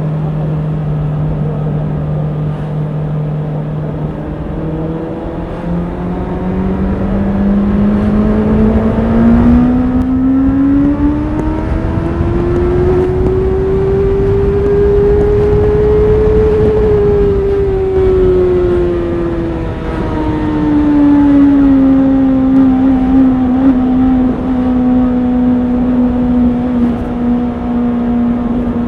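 Honda CBR650R's inline-four engine running. It holds a steady note for about five seconds, then its pitch climbs slowly for some ten seconds. The pitch then falls back and settles on a steady, higher note.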